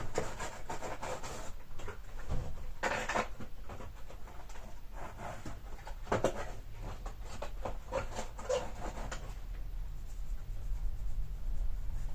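Irregular rubbing and scratching strokes against a small hard surface, over a low steady hum.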